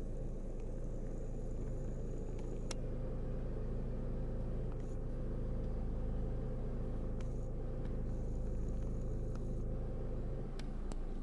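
Steady low hum of a running motor, likely a vehicle engine, with a few faint clicks.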